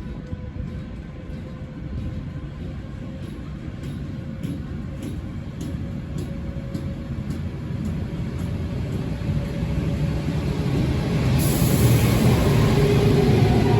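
A train moving through the station, growing steadily louder, with light regular clicks about twice a second and a steady tone over the rumble. About eleven seconds in, a loud hiss sets in.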